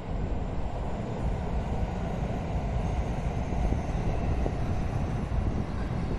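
Marine Liner electric multiple-unit train running past on an elevated track: a steady rumble of wheels on the rails. A faint high whine joins about halfway through.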